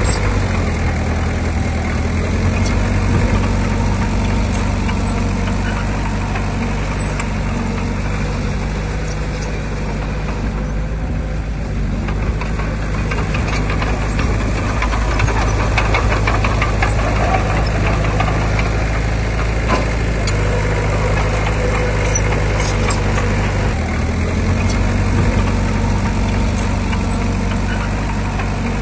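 Heavy diesel engine of earthmoving machinery running steadily, its note shifting slightly a couple of times, with a stretch of clattering and rattling in the middle.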